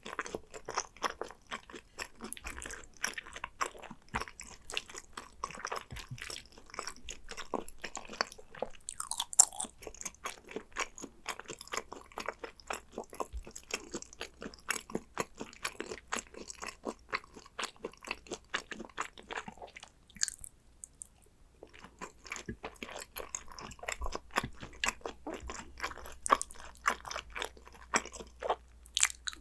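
Close-miked chewing and biting of Korean beef tartare (yukhoe): a dense run of short crunchy, wet mouth clicks, pausing briefly about two-thirds of the way through.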